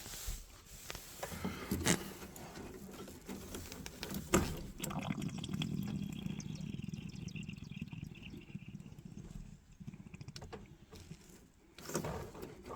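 Clicks and knocks of the domestic hot water flow sensor and its fittings being handled and worked loose inside a combi boiler, with a soft rushing noise for a few seconds in the middle.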